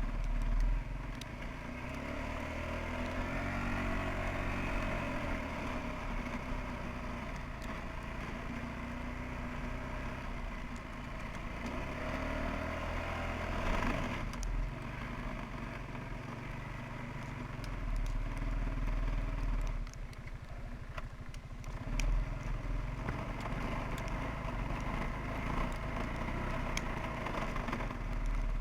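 Suzuki QuadRunner 300 ATV engine running, its pitch rising and falling as it is revved up and backed off, with a brief sharp rise a little before the middle.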